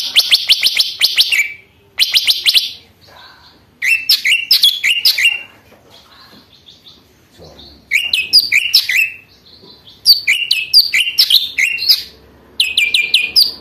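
Lesser green leafbird (cucak ijo mini) singing in short loud bursts of fast, rapidly repeated high chattering notes. There are about six phrases, each around a second long, separated by brief pauses.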